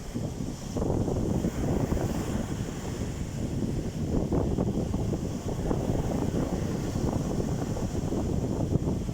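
Steady low rushing noise of moving water, with wind buffeting the microphone.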